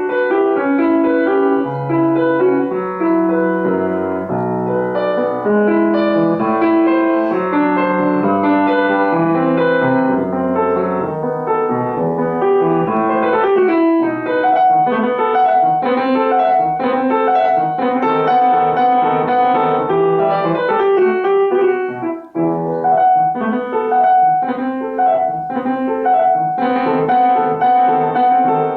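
Solo piano playing a classical piece: a steady run of quick notes in several lines, with a momentary break about two-thirds of the way through.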